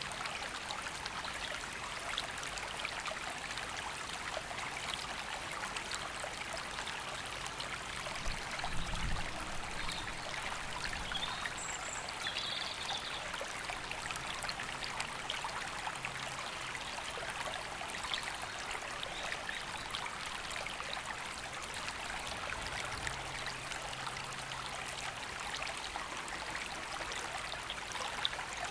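River flowing steadily, with a few brief bird calls between about ten and thirteen seconds in and a short low thump near nine seconds.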